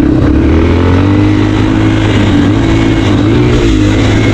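Dirt bike engine running while riding, its pitch rising and falling slightly with the throttle.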